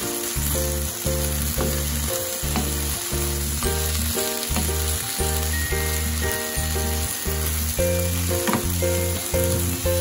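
Garlic scapes sizzling as they are stir-fried in a pan, with a few light knocks of the spatula as they are stirred. Background music with a steady beat plays throughout, its notes changing about twice a second.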